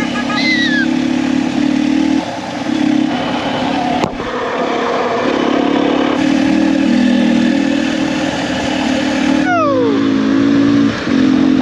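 Motorcycle engine running while riding, with throttle changes and short dips in engine sound about two seconds in and near the end. A sharp knock about four seconds in, and a quick falling whistle-like tone shortly before the end.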